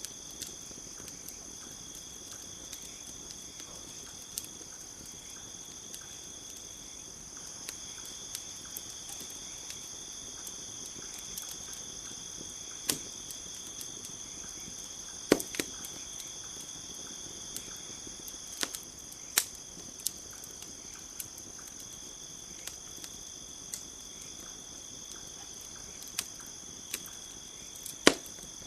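Crackling campfire, its wood giving sharp scattered pops, the loudest about halfway and near the end, over a steady high chirring of crickets.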